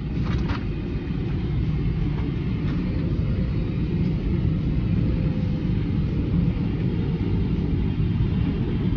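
Steady low rumble of a Boeing 777-300ER's cabin noise, the engines and airflow heard from inside the cabin, with a faint brief rattle just after the start.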